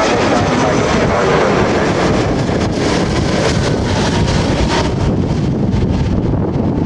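Airbus A330 jet engines rushing during the landing, with gusty wind buffeting the microphone.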